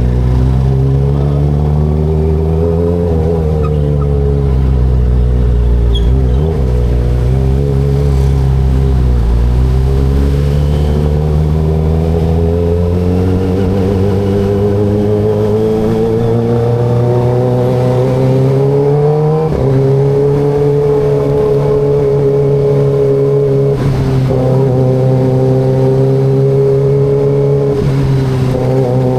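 Kawasaki ZX25RR's 250 cc inline-four engine running while riding, with no filter on the sound. Its note dips briefly a few times, climbs slowly through the middle, steps up suddenly about two-thirds of the way in, then holds steady.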